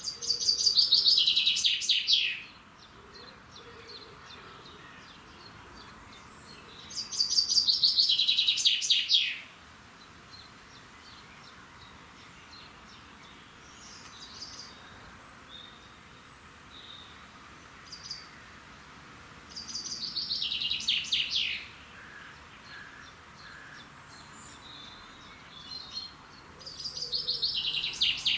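A songbird singing, four times, each song a fast run of notes falling in pitch over about two seconds, with faint chirps from other birds in between.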